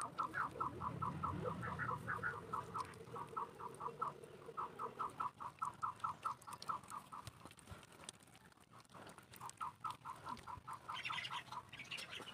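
A bird calling in fast runs of short, evenly spaced notes, about seven a second, with a pause of a second or two past the middle. A higher call joins near the end.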